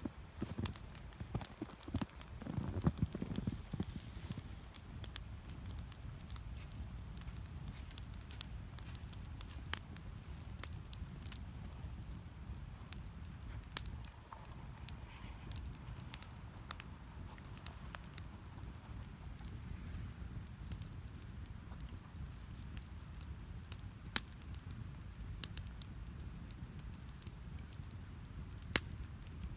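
Wood campfire crackling, with sharp pops at irregular moments, over a steady low rumble. A few dull knocks come in the first few seconds.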